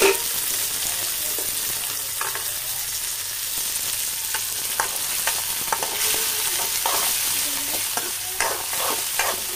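Chopped onions and tomato frying in hot oil in an aluminium kadai, with a steady sizzle. A metal spoon scrapes and knocks against the pan as they are stirred, the strokes coming thicker near the end.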